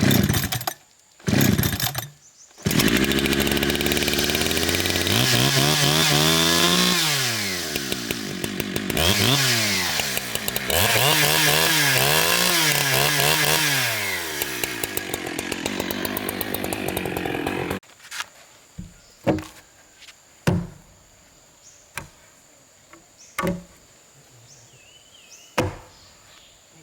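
A chainsaw blips twice, then runs at full throttle cutting wood for about fifteen seconds. Its pitch drops and recovers several times as it bogs into the cut and frees up. It cuts off suddenly, followed by a few scattered knocks.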